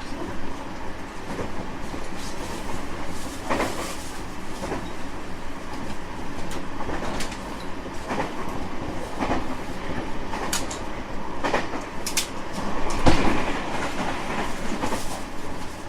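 Running noise of a JR West 225 series 5000 subseries electric train on the move: a steady rumble of wheels on rail, broken by irregular clicks and knocks as the wheels pass over rail joints. The rumble swells briefly about thirteen seconds in.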